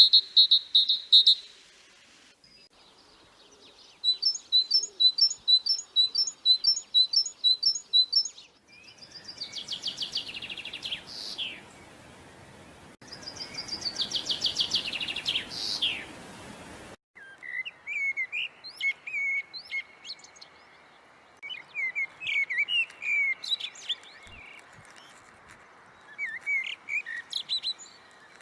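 Songbirds singing, several different songs in turn with abrupt changes between them: first a run of evenly repeated high notes about twice a second, then two long rapid trills that fall in pitch, then a stretch of scattered, varied chirps and whistles.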